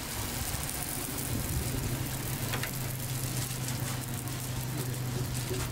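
Hotteok frying in oil on a street-stall griddle: a steady sizzle with a few faint ticks, over a steady low hum.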